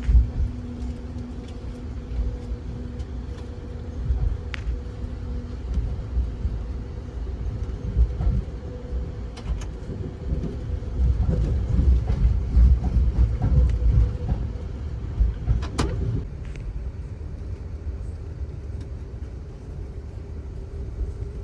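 Ride noise aboard a moving Amtrak Auto Train: a steady low rumble of wheels on track, with occasional sharp clicks and rattles, the loudest a little before the end. A faint steady hum drops out about five seconds in.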